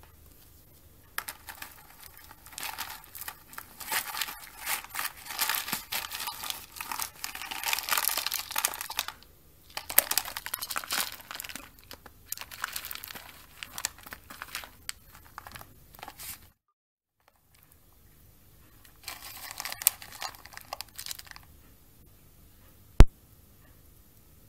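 Cat's Best Nature Gold wood-fibre cat litter being handled during a clumping test: crunchy, crumbly rustling in irregular bursts, with one sharp click near the end.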